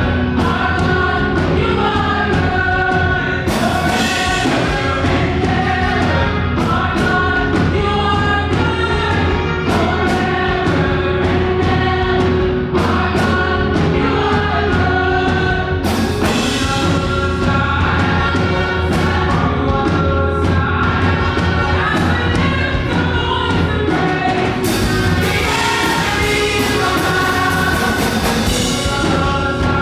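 Up-tempo gospel worship music performed live: a choir singing over a band with a steady drumbeat and low bass, with cymbal crashes a few times.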